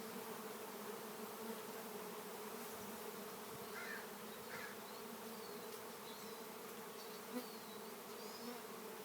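A honeybee swarm buzzing: a steady, low massed hum of many bees flying close by as the swarm moves into its new hive box.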